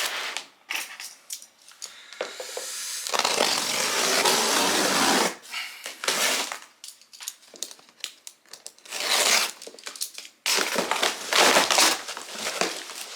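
Packaging of a large delivered parcel being handled and torn open: irregular bursts of crushing, tearing and crinkling, with a longer stretch of rustling about two to five seconds in.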